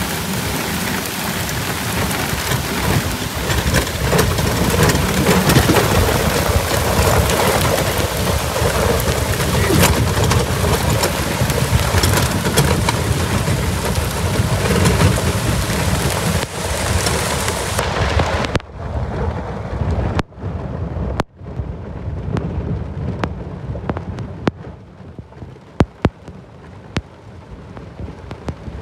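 Torrential thunderstorm rain pouring down, a dense hiss with raindrops striking the microphone. About two-thirds of the way through, the high end suddenly cuts out and the sound turns muffled as the wet microphone mutes, leaving the rain dull with scattered sharp clicks from drops hitting it.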